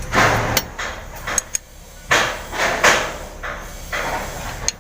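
Metal hand tools working on a diesel engine's valve rocker-arm adjuster: short metallic scrapes and a few sharp clicks and clinks, as the too-loose intake valve clearance is being reset.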